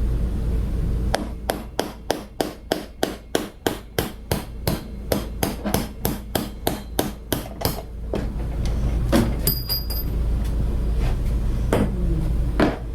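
A maul hammering a carriage bolt through a wood-and-steel flitch beam: about two dozen quick, even blows, about four a second, stopping about 8 seconds in, followed by a few scattered knocks.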